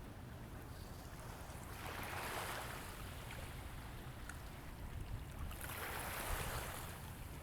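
River water washing in gently, swelling twice about four seconds apart, over a low wind rumble on the microphone.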